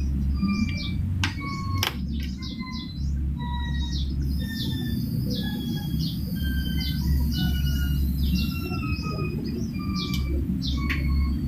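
Small birds chirping over and over, quick high notes that drop in pitch mixed with short whistled notes, over a steady low hum.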